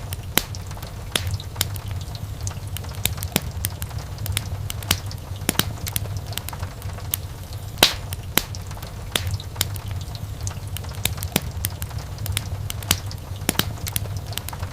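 Wood fire burning in a fireplace: irregular crackles and sharp pops of burning logs over a steady low rumble of the flames, with a louder pop about eight seconds in.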